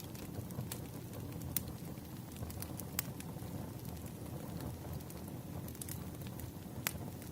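Wood fire crackling: a steady low rumble of burning with scattered sharp pops, the clearest about a second and a half in, about three seconds in, and near the end.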